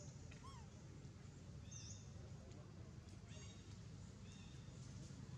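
Quiet outdoor ambience with a few scattered high bird chirps over a low steady hum.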